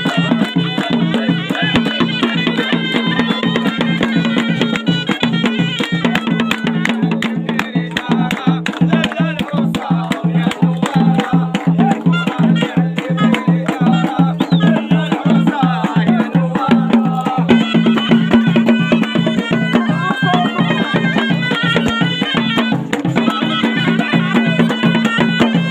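Moroccan ghaita (reed shawm) playing a folk melody over a steady low drone, with a fast, steady drum beat.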